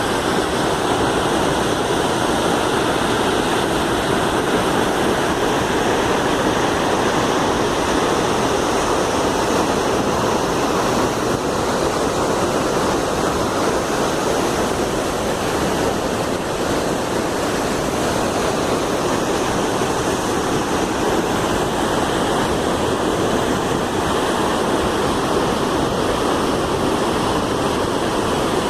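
A waterfall's water falling and splashing in a steady, unbroken rush.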